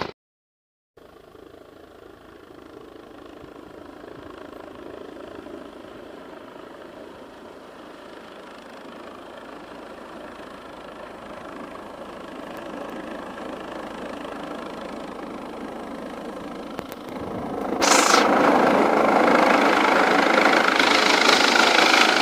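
Helicopter engine and rotor noise, a steady rush that builds slowly after a second of dead silence, then becomes suddenly much louder near the end as the helicopter comes in close.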